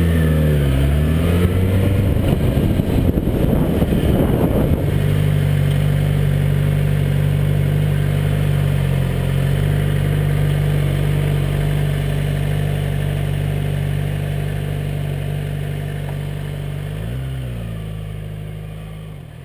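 Motorcycle engine at low speed, heard from the rider's seat. It sounds choppy and uneven for the first few seconds, then settles into a steady idle. Near the end comes one brief throttle blip, and the sound then fades out.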